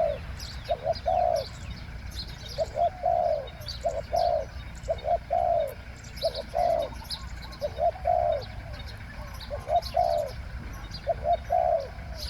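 Spotted dove cooing in short phrases of two or three low notes, repeated about every one to two seconds. Smaller birds chirp faintly in the background.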